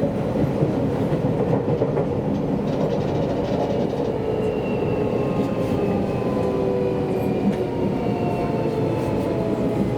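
Seibu Railway electric train running on the line, heard from aboard: a steady rumble of wheels on rail. From about four seconds in, a motor whine slowly falls in pitch.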